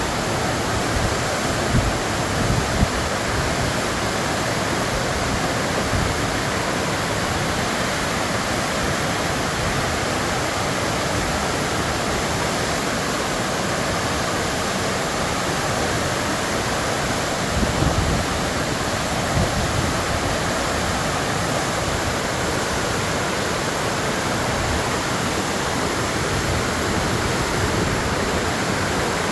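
Waterfall: water falling and flowing in a steady, even rush, with a few brief heavier splashes.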